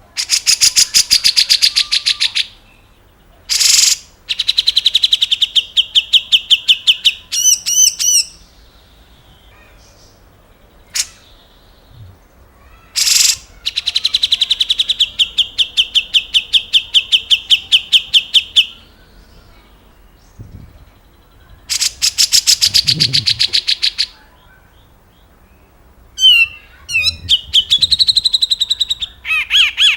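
Grey-cheeked bulbul (cucak jenggot) singing in long rapid chattering trills of two to five seconds each, separated by short sharp calls. Quick rising-and-falling whistled notes come near the end.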